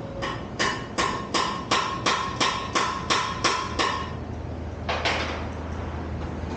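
A hammer striking metal in a quick, even series of about eleven ringing blows, roughly three a second, then a single further blow after a pause.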